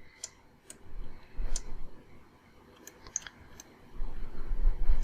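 Scattered single clicks at a computer desk, about eight of them at uneven intervals, from the controls being worked while sculpting in Blender. From about four seconds in, a low rumble runs under the clicks and is louder than they are.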